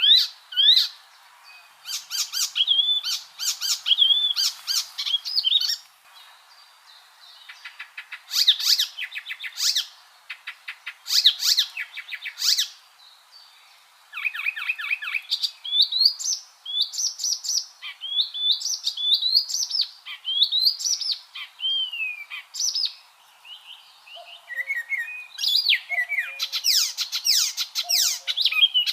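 Icterine warbler singing: a varied, chattering song of quick chirps, fast runs of repeated notes and rising and falling whistles, delivered in phrases of one to several seconds with short pauses between them.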